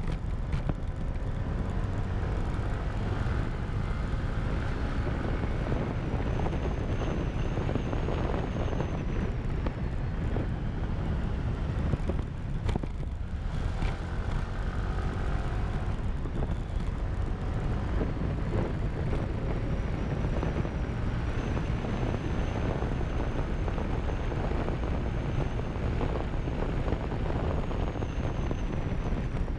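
Wind buffeting the microphone of a camera riding on a moving motorcycle, with the bike's engine running underneath, its pitch rising and falling now and then.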